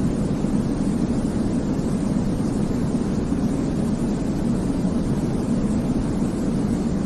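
Steady baby-sleep 'white noise': an even, unchanging rush with no rhythm or breaks, weighted toward the low end so it sounds deep rather than hissy.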